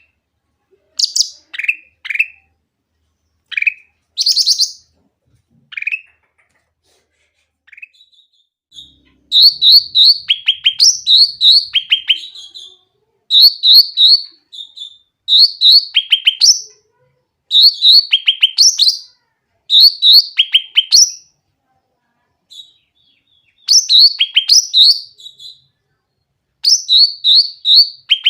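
A cucak ranting singing loudly: at first single sharp down-slurred whistled notes about a second apart, then from about nine seconds in, quick runs of repeated chirping notes lasting about three seconds each with short pauses between.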